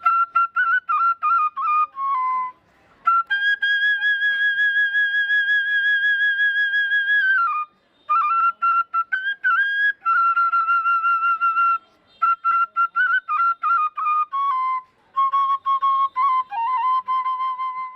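Solo flute playing a slow melody as background music, with quick repeated notes, one long held note and a few short pauses.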